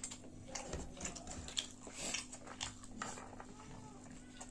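A person chewing food close to the microphone, with irregular mouth clicks and smacks over a faint steady hum.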